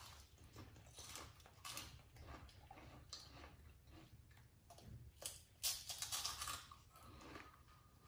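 Faint crunching and chewing of crispy rolled wafers, with a louder run of crunches about five and a half seconds in.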